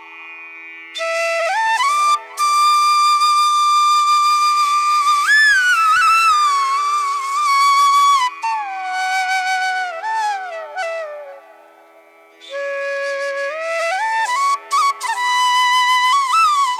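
Background music: a solo flute melody with long held notes that glide up and down in pitch.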